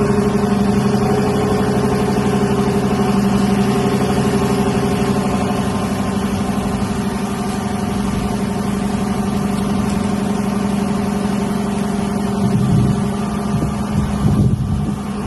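2021 Dodge Durango R/T's 5.7-litre Hemi V8 idling steadily just after starting, its exhaust note strong and even. The sound becomes uneven near the end.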